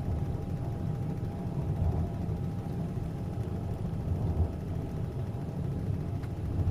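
Steady low rumble of a train running, heard from inside the passenger carriage, with a faint steady whine above it. It cuts off suddenly at the very end.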